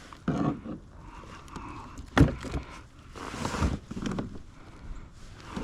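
Handling noise aboard a fishing kayak while a small fish is unhooked and released: a sharp knock about two seconds in, then a short rush of splash-like noise.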